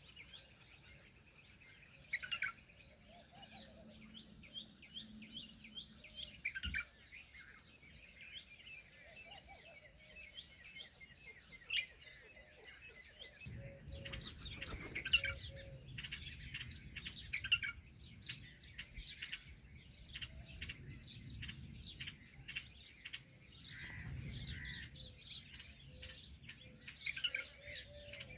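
A crowd of small birds chirping and twittering continuously in many short, overlapping notes. About halfway through, a low rumble of wind or handling noise joins in.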